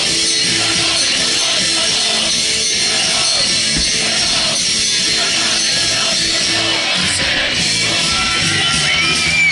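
Live rock band playing a song, loud and steady, with full instrumentation.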